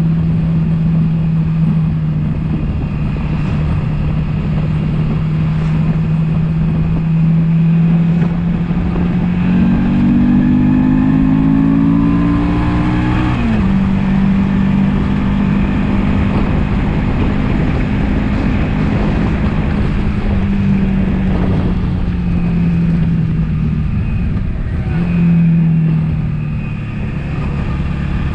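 Suzuki V-Strom V-twin engine running under load on the climb, with a steady rush of wind. The engine note climbs a bit before halfway, then drops sharply and settles again.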